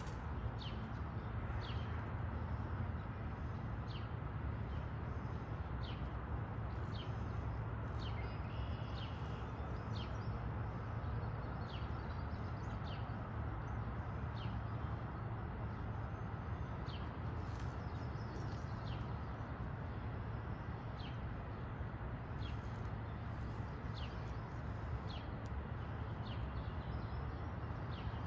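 Outdoor ambience of a bird chirping repeatedly: short, high, falling chirps about once a second, over a steady low rumble.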